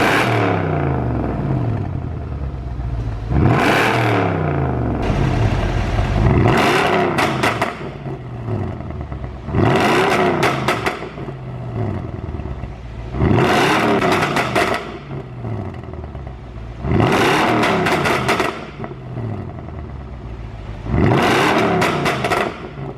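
Mercedes-Benz W221 S500's V8 revved in repeated blips about every three and a half seconds, each rev climbing quickly and falling back, with bursts of exhaust pops and crackles as the revs drop, the overrun popping that the tune sets up.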